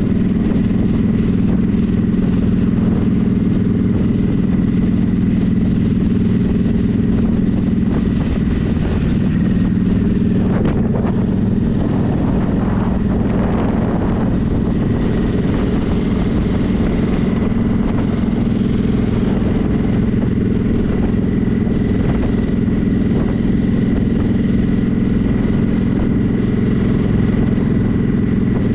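Motorcycle engine running at a steady speed while riding, a constant drone heard from on the bike, with road and wind noise beneath it.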